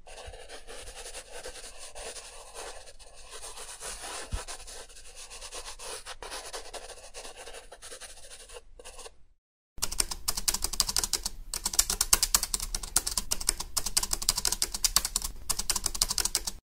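Two stock sound effects in turn: about nine seconds of soft, steady scratching, then, after a short break, about seven seconds of dense, rapid clicking.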